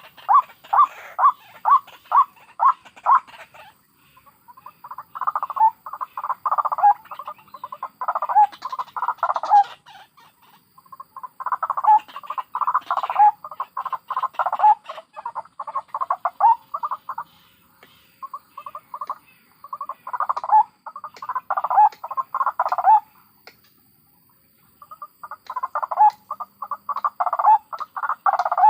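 White-breasted waterhens calling: fast series of harsh repeated notes, starting as an even pulse of about four notes a second, then in bouts several seconds long broken by brief pauses.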